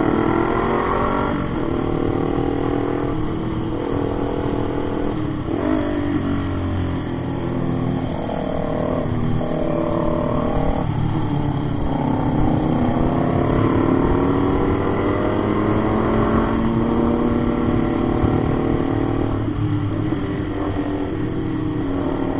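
Motorcycle engine running under way, its note rising and falling repeatedly as it speeds up and eases off, with a few brief breaks in the pitch.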